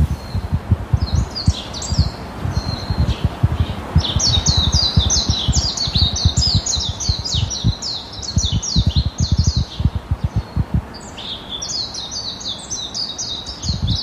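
Songbirds chirping in fast runs of short, high, falling notes, in three spells with short pauses between. Underneath, wind gusts against the microphone in low, irregular rumbles.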